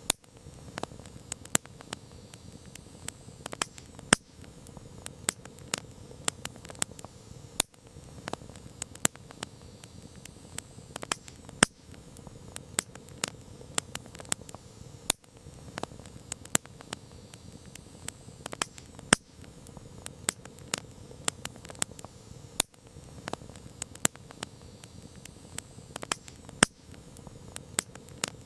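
Campfire crackling: irregular sharp pops and snaps of varying loudness over a low, steady rush of the burning wood, with brief dips every three to four seconds.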